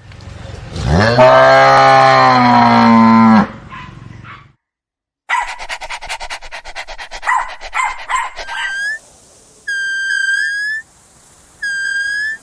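A sequence of animal calls. First comes one long, low call that rises at the start and then holds steady. Next is a quick run of clicks, about eight a second. Last come several short, high whistled calls.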